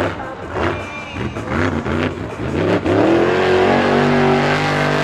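Monster truck engine revving in quick repeated blips, then climbing to high revs a little before the middle and held there.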